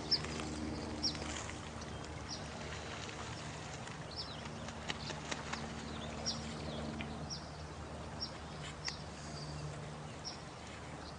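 Night nature soundscape: a steady wash of running water with short, high, falling chirps every half second to a second, a few faint clicks, and a low steady hum underneath.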